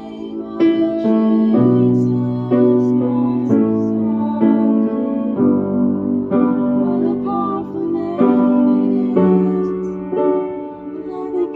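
Piano accompanying a vocal warm-up exercise, striking a chord about once a second and shifting pitch from chord to chord, with voices singing along.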